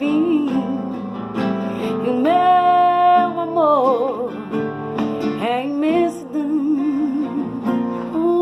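A sung melody with long held notes over strummed acoustic guitar. One note is held about two seconds in and then slides downward, and later a note wavers up and down.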